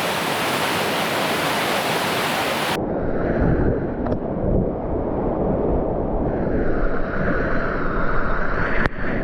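Rushing whitewater of a flood-swollen creek, a steady hiss. About three seconds in it cuts to a duller, rumbling version with wind buffeting the microphone, and a single sharp knock near the end.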